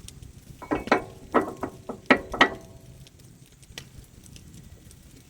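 About six sharp metal-on-metal clanks in quick succession, each ringing briefly: steel parts of an excavator quick coupler and its wedge lock being knocked and handled.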